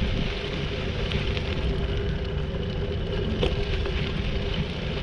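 Steady wind noise on the microphone and the rumble of bicycle tyres rolling along the trail, with one sharp click about three and a half seconds in.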